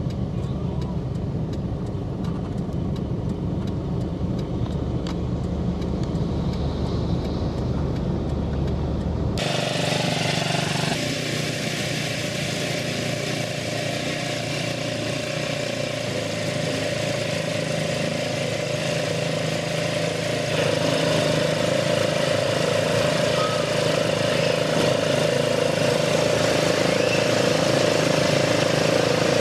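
A motor vehicle's engine running steadily as it travels. About nine seconds in there is an abrupt cut to a noisier stretch with a steady whine, which gets louder from about twenty seconds in.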